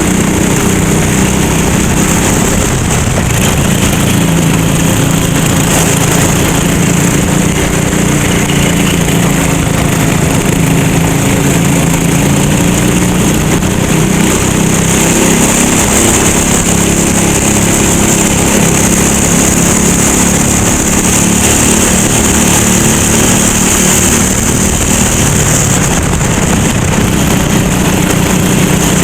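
Racing kart engine running steadily under load, its pitch drifting slightly up and down with speed, with a steady high hiss throughout.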